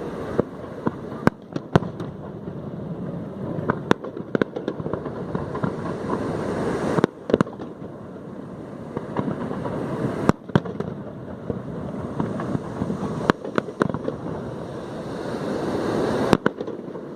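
Aerial fireworks going off: a continuous din punctuated by many sharp bangs at irregular intervals, a few of them standing out loudest, near the start, around the middle and near the end.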